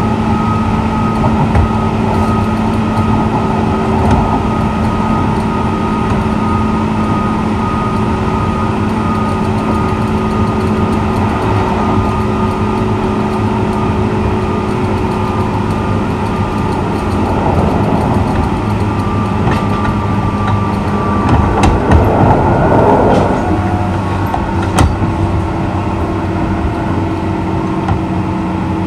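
JR 201 series electric train running between stations: steady rumble of wheels on rail with a constant-pitch motor hum. About three-quarters of the way through the noise swells briefly with a falling tone, and a few sharp clicks of rail joints follow.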